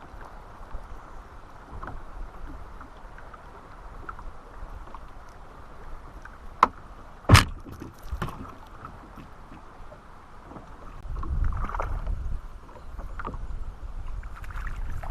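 Kayak on the water: a steady low wash of water and handling noise, with two sharp knocks close together about halfway through, the second louder, and a stretch of low rumbling near the end.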